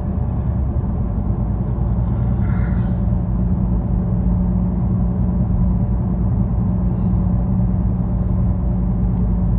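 Steady low rumble of road and engine noise inside a moving car's cabin, with a steady drone that comes up about halfway through.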